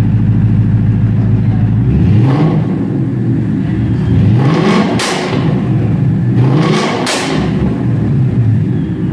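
Supercharged 5.0-litre V8 of a 2015 Saleen Black Label S302 Mustang revved from idle. The pitch starts climbing about two seconds in, peaks sharply twice around five and seven seconds, and falls back to a steady idle near the end.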